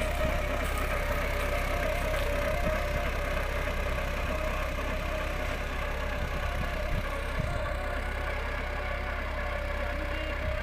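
John Deere 5405 tractor's diesel engine running steadily at a constant pitch, under full load pulling a one-bottom mouldboard plough.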